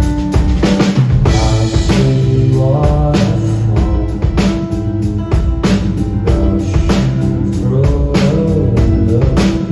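Live rock band playing, the drum kit keeping a steady beat with kick and snare under bass and other instruments, with a cymbal wash about a second in.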